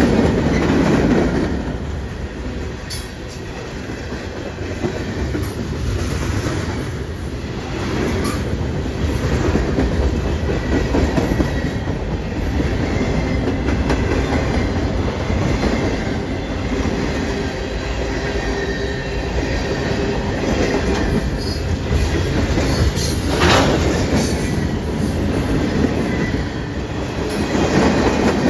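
A train rolling past with its wheels squealing faintly on the rails. The noise goes on steadily, with scattered sharp clicks and a few swells in loudness.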